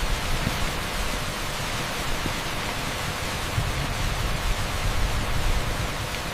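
Torrential rain pouring onto an asphalt street: a dense, steady hiss with a low rumble underneath.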